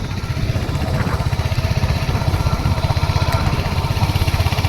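Royal Enfield Hunter 350's single-cylinder engine idling, its exhaust giving a quick, even beat of low pulses.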